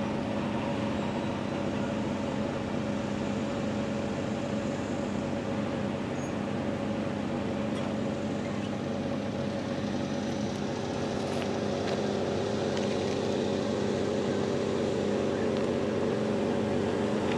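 Norfolk Southern manifest freight train rolling past: a steady rumble of wheels on rail with a steady drone under it, unchanging throughout.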